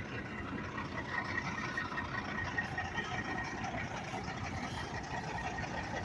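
Truck engine running steadily at idle, with a faint high whine over it.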